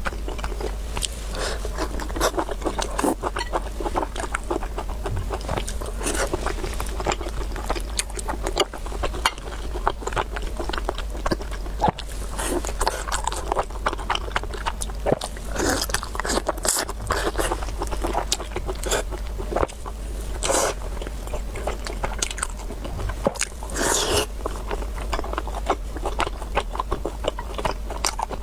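Close-miked eating sounds: a person chewing and biting, with many small wet clicks and a few louder bursts, over a steady low hum.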